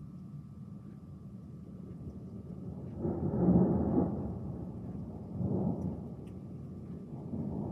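Thunder rumbling: a low rumble swells about three seconds in, peaks and rolls off, with a second smaller swell about two seconds later.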